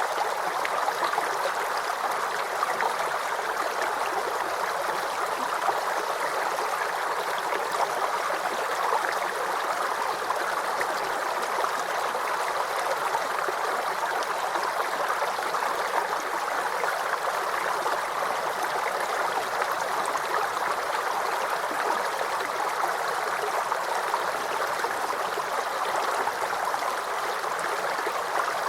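Shallow creek babbling and gurgling over stones, a steady, unbroken rush of running water.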